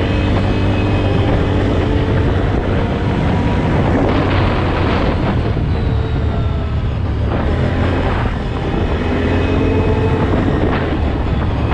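Vehicle engine running steadily as it drives, its pitch rising and falling a little.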